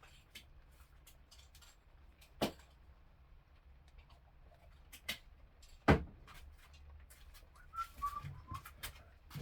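Small hard objects handled and knocked on a work surface: a few scattered sharp clicks and knocks, the loudest about six seconds in, with a brief faint squeak a couple of seconds later.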